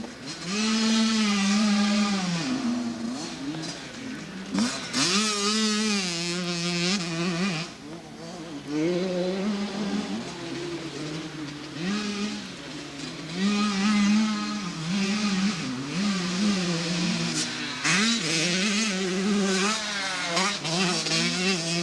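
Motocross dirt bike engines revving hard and dropping off repeatedly as riders throttle through the track, the pitch climbing and falling with each burst and gear change.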